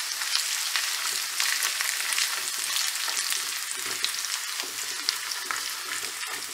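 Chopped onions with tomato and pepper paste sizzling in hot olive oil in a clay tagine, stirred with a wooden spoon that scrapes and taps lightly against the clay.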